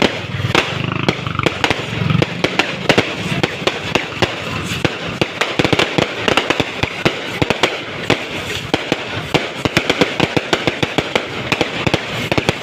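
Fireworks going off in a dense, continuous barrage of sharp cracks and bangs, several a second, irregular and overlapping.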